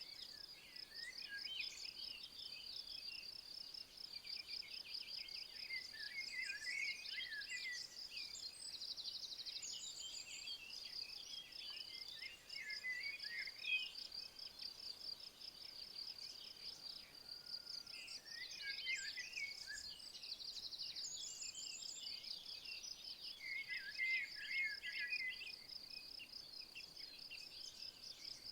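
An insect trilling steadily in rapid, even pulses, with songbirds singing short warbling phrases over it every few seconds.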